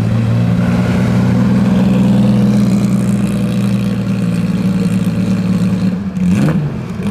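Porsche 906 race car engine running steadily at idle, with a short blip of the throttle about six seconds in.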